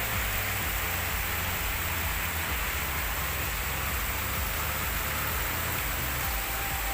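Heavy rain falling steadily, a dense even hiss, with strong wind rumbling low on the microphone.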